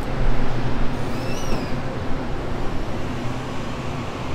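Electric commuter train standing at the platform with its doors closed, its equipment humming steadily. A short, high descending chirp sounds about a second and a half in.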